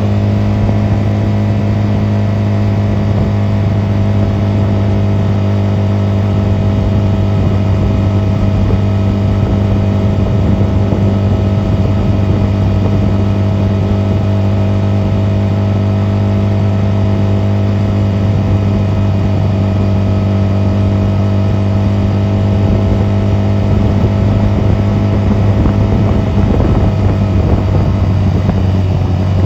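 Honda 250cc motorcycle engine running at a steady speed while riding, its pitch easing down slightly near the end.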